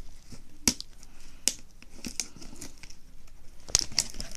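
Packaging being handled and pried open by hand, with irregular crinkling and sharp clicks that grow busier near the end.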